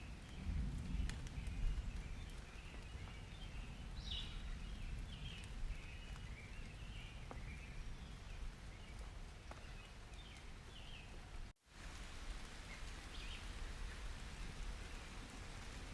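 Ambience recording of steady rain with birds chirping repeatedly, a low rumble of distant thunder in the first couple of seconds. The sound drops out for a split second about eleven and a half seconds in.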